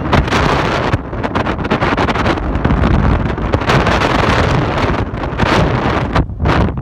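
Wind buffeting the microphone: a loud, gusting rumble that rises and falls unevenly.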